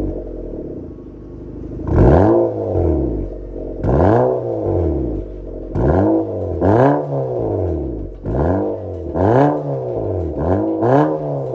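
Nissan Sentra B18's HR16DE 1.6-litre four-cylinder engine revved through an MS-R valved cat-back exhaust: about nine quick throttle blips, each rising and falling back in pitch, coming closer together toward the end.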